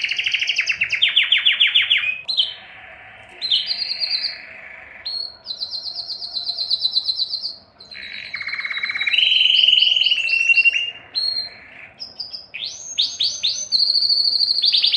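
Domestic canary singing a long song of rapid trills, held whistled notes and quick rising sweeps, the phrases changing every second or two, with a brief softer pause around two and a half seconds in.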